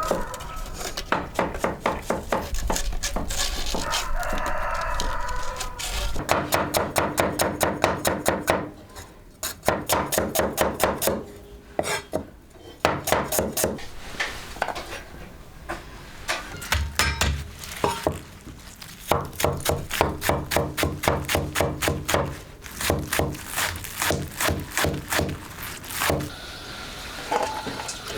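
Fast, rhythmic chopping with a knife on a wooden board, several strokes a second in runs of a few seconds with short pauses, typical of mincing food.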